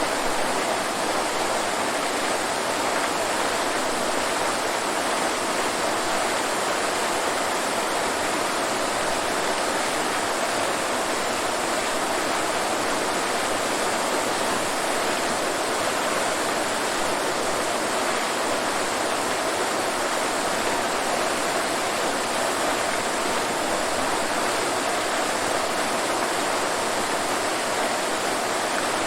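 Waterfall: falling water rushing in a steady, even hiss with no change.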